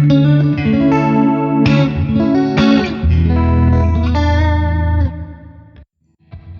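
Squier ST electric guitar played: a quick run of single notes, then a low note rings and dies away to a brief silence near the end.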